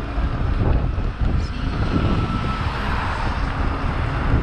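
Strong wind buffeting the microphone, a continuous low rumble, with vehicle noise swelling and fading about halfway through.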